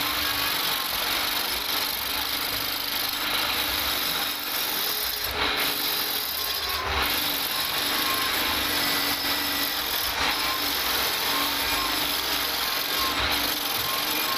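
Wood lathe running while a turning tool cuts the spinning wood, a steady hiss with no pauses.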